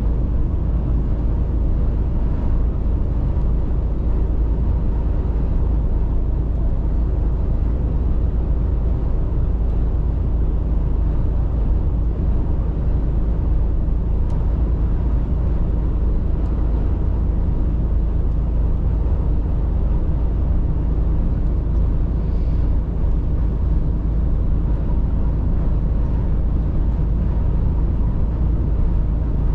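Mercedes-Benz Actros truck driving at a steady pace: a continuous low drone of engine and road noise, unchanging throughout.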